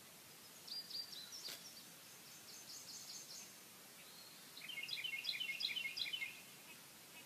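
Faint birdsong: several short runs of quick, high repeated chirps, the busiest about five seconds in, with a single click about one and a half seconds in.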